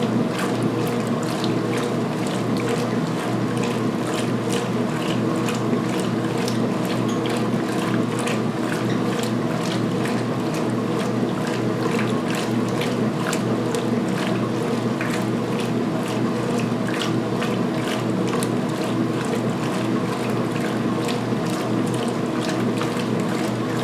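2016 Speed Queen top-load washer agitating a load of towels in water during its main wash: a steady motor and transmission hum with rapid, irregular clicking and some water sloshing.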